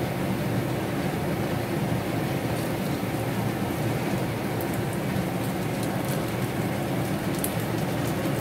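Besan-battered bread snacks shallow-frying on a hot tawa: a steady sizzle with a few faint crackles.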